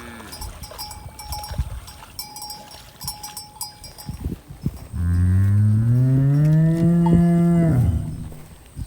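A cow mooing once, about five seconds in: one long, low moo that rises in pitch and holds for about three seconds, the loudest sound here.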